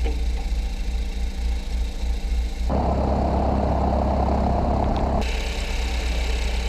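The single piston engine of a Piper Cherokee idling steadily, heard from the cockpit. A band of hiss joins the engine for about two and a half seconds in the middle.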